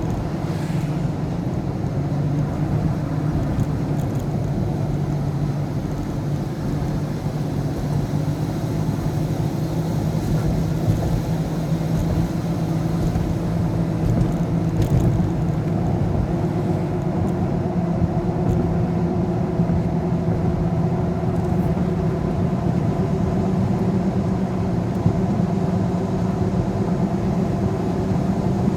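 Motor vehicle on the move: a steady low engine drone with road noise, holding even throughout.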